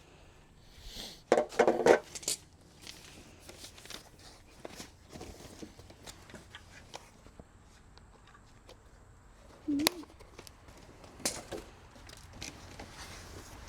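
Packaging being handled and unwrapped from e-bike parts: plastic wrap and cardboard rustling and crinkling, loudest in a burst about two seconds in, with scattered clicks and snaps, two of them sharper near the end.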